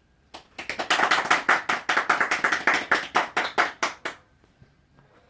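Hands clapping, about five claps a second for some three and a half seconds, then stopping.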